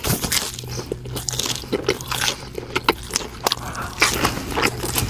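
Close-up eating sounds: bites and chewing through crispy fried chicken, a Dave's Hot Chicken slider, with many sharp crunches, over a steady low hum.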